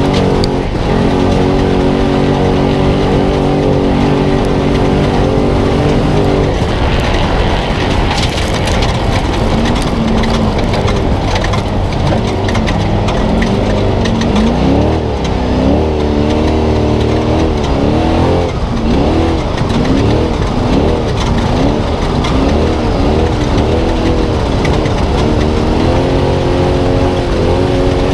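Spec Trophy Truck's V8 engine at race speed over loud road and wind noise: it holds a steady pitch for about six seconds, then revs rise and fall again and again over the second half.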